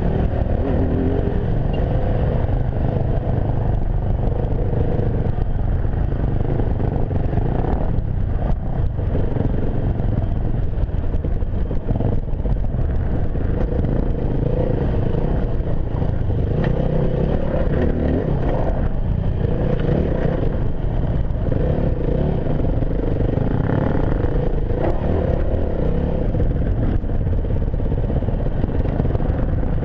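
Enduro motorcycle riding a trail, likely a Yamaha WR250F with its single-cylinder four-stroke engine. The engine pitch rises and falls with the throttle, over constant rushing noise and rattling from the bike on rough ground.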